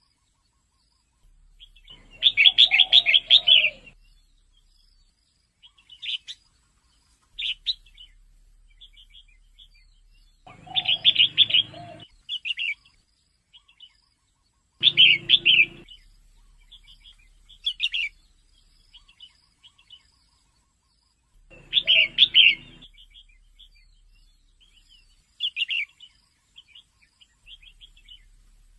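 Female red-whiskered bulbul calling: quick bursts of chirpy, bubbling notes every few seconds, with short single notes in between. It is a recording played to stimulate caged male bulbuls.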